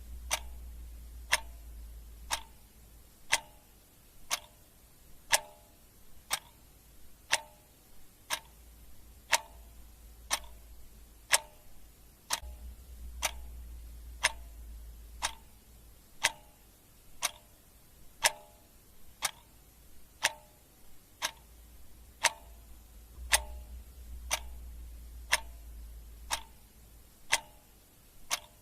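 Clock ticking steadily, about two ticks a second, alternating a louder and a softer tick in a tick-tock rhythm.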